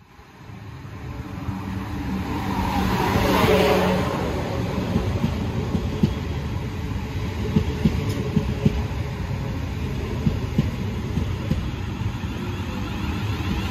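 South Western Railway Class 444 Desiro electric multiple unit running into the station close by. Its sound builds from quiet to a peak with a falling whine as the front passes, about three and a half seconds in, then settles into a steady rumble of the passing carriages with sharp clicks of wheels over rail joints.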